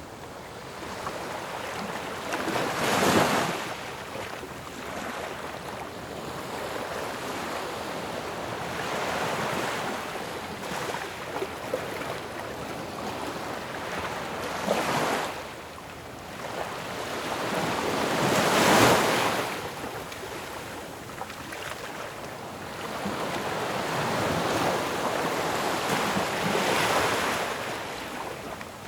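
Ocean waves breaking on a shore: a steady wash of surf with louder crashes swelling up and falling away every several seconds, four in all.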